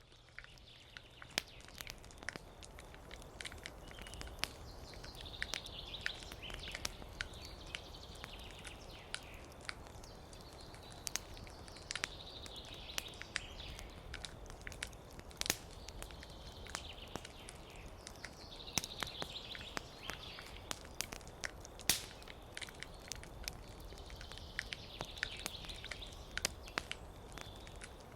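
Wood campfire crackling with sharp, irregular pops over a steady low hiss, while a songbird sings short phrases every few seconds.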